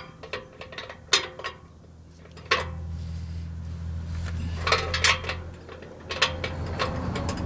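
Hand tools clinking and knocking against metal in irregular, separate clicks while working on the car's exhaust oxygen sensors. A low steady hum comes in about two and a half seconds in and drops back about three seconds later.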